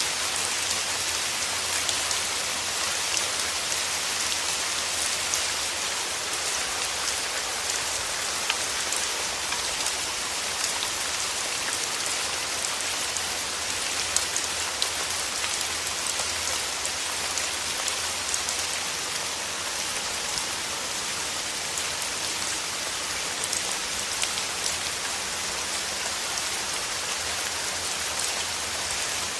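Steady rain falling, a dense even hiss with many small drops ticking on a surface.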